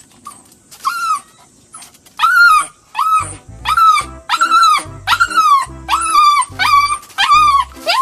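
A small pet animal giving a run of about eleven short, high cries that rise and fall in pitch, starting about a second in and coming roughly two a second. Music with a bass beat enters about three seconds in.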